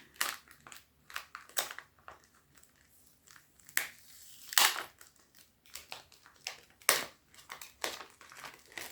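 Crinkling and crackling of a resealable tobacco pouch being handled and opened, in irregular crackles, with the loudest about halfway through and again about two-thirds of the way through.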